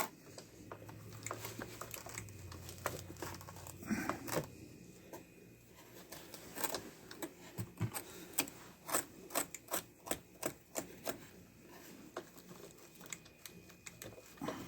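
Hobby knife cutting and scraping tangled dog hair off a robot vacuum's wheel, with irregular small clicks and taps of its plastic parts being handled.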